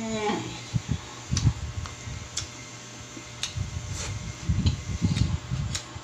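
Mouth noises of someone eating by hand: chewing with scattered sharp lip-smacks and soft low thumps, after a short hummed 'mmm' right at the start.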